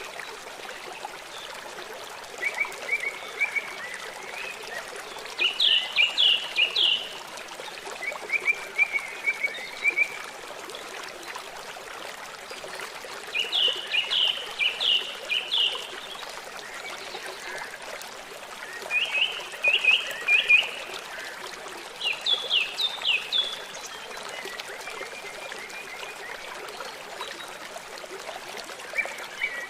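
Short trains of rapid chirping calls, four to six quick notes each, repeating every few seconds over a steady hiss of running water.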